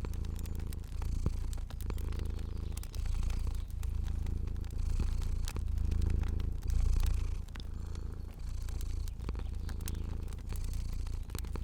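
Domestic cat purring, swelling and fading about once a second as it breathes in and out, with the scattered snaps of a crackling fire over it.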